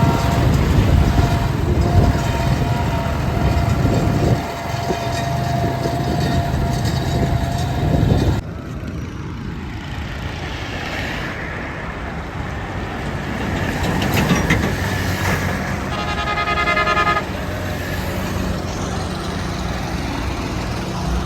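Ford 4000 tractor engine running steadily under load pulling a loaded trolley, with a low rumble and a steady whine in the first part; the sound changes abruptly about eight seconds in. A horn sounds once for about a second well past the middle.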